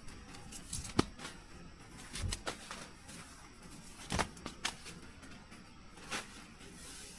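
A handful of sharp clicks and knocks, about five spread over several seconds, the loudest about a second in, over a faint steady background.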